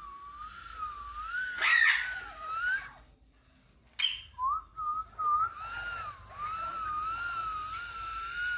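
A long whistle whose pitch slowly wavers up and down, cut by two short harsh sounds about two and four seconds in, then a few short whistled notes before the wavering whistle picks up again.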